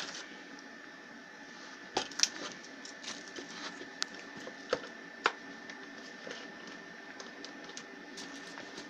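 Tesla Weld MIG 302 inverter welding machine switched on and idling: a steady hum with a thin high whine. A few sharp clicks and knocks land about two, four and five seconds in.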